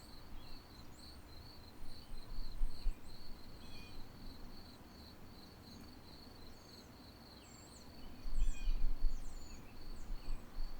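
Crickets chirping in a steady, fast, high-pitched pulse, with small birds chirping now and then over it. A low rumble comes in near the end.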